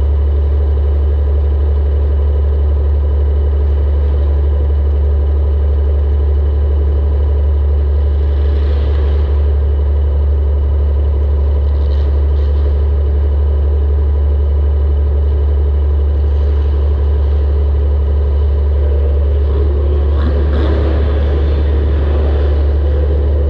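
Compact demolition derby car's engine running steadily at a constant speed, a loud deep drone, with a few brief noisier bursts over it.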